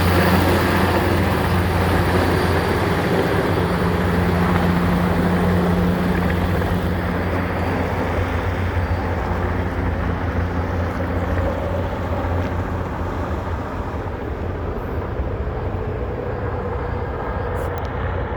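Erickson S-64 Air-Crane heavy-lift helicopter running, a steady low drone from its rotors and twin turbine engines that grows gradually fainter, its higher sounds falling away about halfway through.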